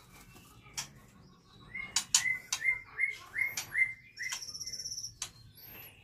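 White-rumped shamas calling. A run of about six short, evenly repeated notes, a couple of high arching whistles, and a fast rattle near the end, with sharp clicks in between.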